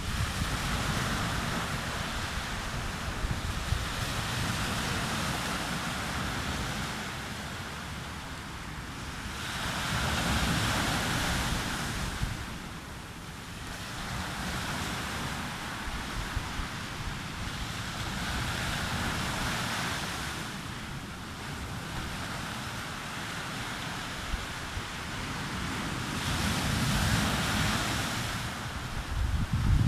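Sea waves breaking and washing on a beach, the surf swelling and easing every several seconds. Wind buffets the microphone with a low rumble.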